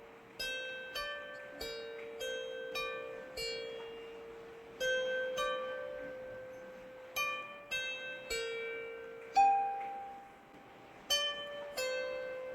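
Slow plucked-string music: single notes ring out and fade, about one or two a second, with a higher, louder note near the middle. Under the notes runs a faint, steady hiss of rain.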